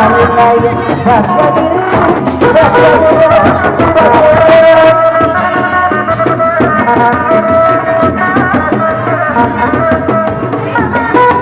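Loud traditional music for a kuda lumping and sisingaan troupe: quick hand-drum strokes under a held, bending melodic line.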